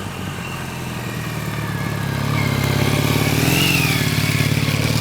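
Motorcycle engine running and growing steadily louder, with a brief rise and fall in engine pitch about three and a half seconds in.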